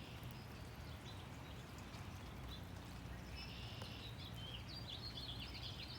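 Songbirds calling in the rain: a few faint scattered high notes, then from about three seconds in a run of quick, high chirps that grows busier near the end, over a steady hiss of rain.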